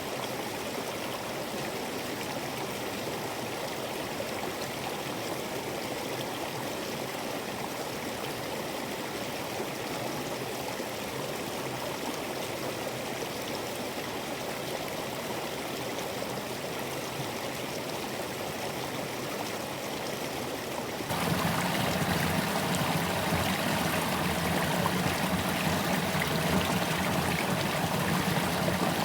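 Water spilling over a small creek waterfall, a steady rushing. About two-thirds of the way through it switches abruptly to a louder, deeper-sounding cascade, the next waterfall.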